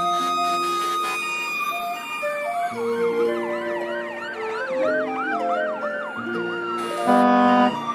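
Fire truck siren sound effect, a fast repeating up-and-down yelp with a long falling tone, over a simple keyboard melody that ends on a louder chord.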